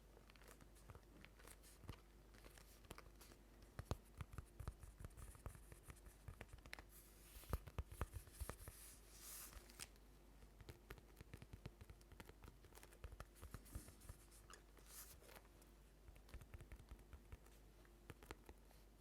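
Quiet, close-miked ASMR trigger sounds made by hand: many scattered light taps and clicks. Short scratchy, tearing-like rustles come about seven to nine and a half seconds in and again near fifteen seconds.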